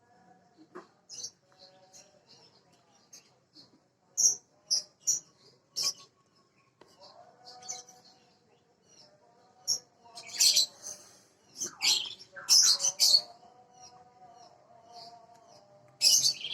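Small birds chirping in many short, high, sharp calls, coming in louder clusters of several chirps at a time.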